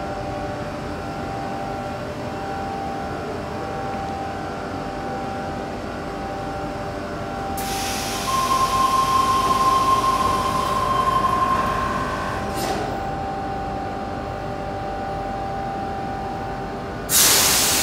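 Double-deck electric suburban train standing at an underground platform, its equipment giving a steady hum. About eight seconds in a hiss and a steady high tone start, and a short clunk of the doors closing comes at about twelve and a half seconds. A sudden loud hiss of air near the end follows.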